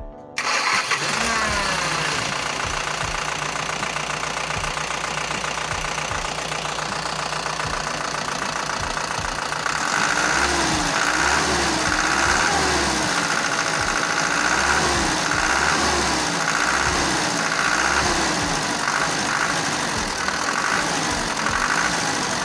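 Mazda T3500 truck's engine running. It cuts in suddenly and its pitch settles down over the first couple of seconds. From about ten seconds in, its note rises and falls in a regular cycle about once a second.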